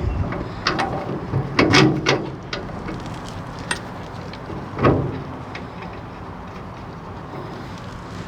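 Metal clicks and knocks of bolts and hand tools being handled while bolts are fitted to a wheelbarrow, a few separate strikes with the loudest about five seconds in, then only faint background.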